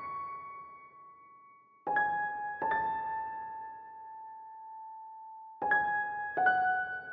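Slow solo piano music: single notes struck one at a time, in two pairs, each left to ring out and fade.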